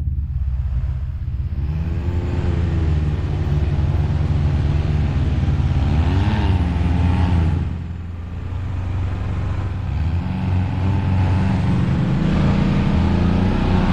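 Side-by-side UTV engine revving up and down repeatedly while it crawls over a rock obstacle, easing off briefly about halfway through.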